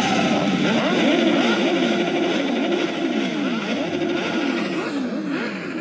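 Car engine revving hard and repeatedly, its pitch sliding up and down over and over, with several gliding tones layered on top.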